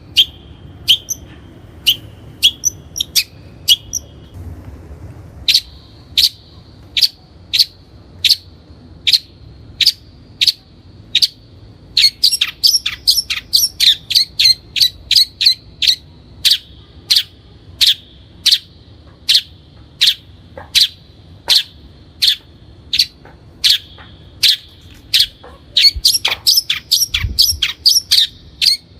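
Long-tailed shrike calling: a long series of short, sharp repeated notes, about two a second at first. They come faster past the middle and densest near the end, with a short pause about four seconds in.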